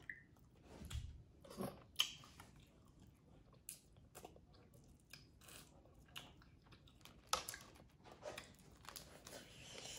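Close-up mouth sounds of someone eating boiled crawfish: chewing and smacking on the tail meat, broken by irregular short clicks and crunches.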